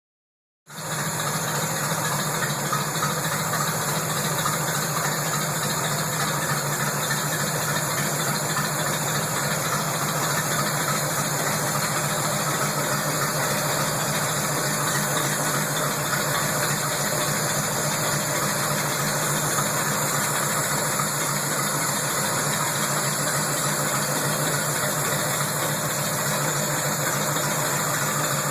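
1940 Studebaker President's straight-eight flathead engine running steadily at an even speed, with no revving; it starts under a second in, after a short silence.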